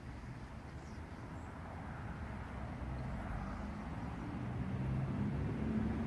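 Low rumble of a distant engine, with a faint steady hum, growing steadily louder.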